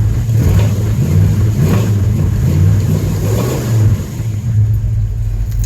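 Car engine running after a cold start following 16 days of sitting, the throttle blipped in a few short revs before it settles to a steadier idle after about four seconds.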